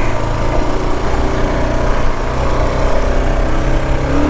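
Kawasaki KLR650's single-cylinder four-stroke engine running at a steady pitch as the dual-sport bike is ridden along a trail.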